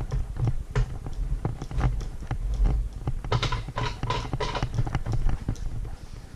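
Irregular clicks and knocks of metal parts and tools being shifted and handled, several a second, over a low rumble.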